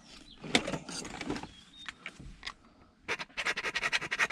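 A few handling knocks, then a hand file scraped back and forth in quick, even strokes, about nine a second, across lacquered winding wire, filing through the enamel to see whether the metal underneath is copper.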